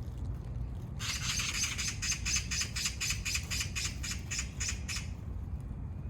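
An animal's harsh, rapid rattling chatter lasting about four seconds, over a steady low rumble.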